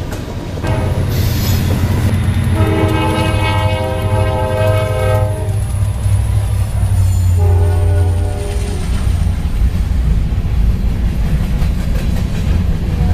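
Diesel freight locomotive sounding its multi-note air horn twice, a long blast then a short one, over the steady low rumble of the locomotive and train.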